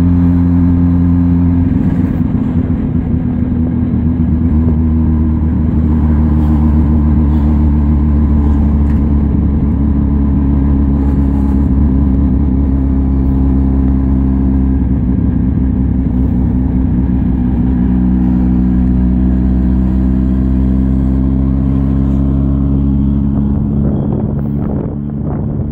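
1958 Berkeley SE328's small two-stroke twin engine running under way as the car drives. The note shifts about two seconds in, then holds fairly steady, and eases off near the end.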